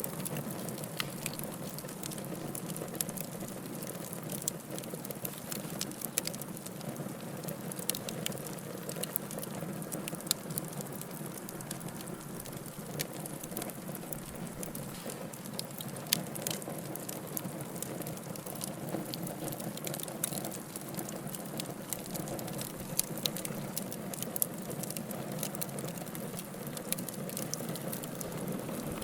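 Wood logs burning in a fireplace: a steady low rush of flames with irregular sharp crackles and pops from the burning wood.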